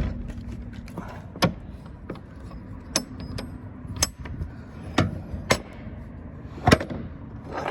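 Several sharp knocks and clanks, spaced irregularly about a second apart, from the rear cargo door of a box truck being shut and latched.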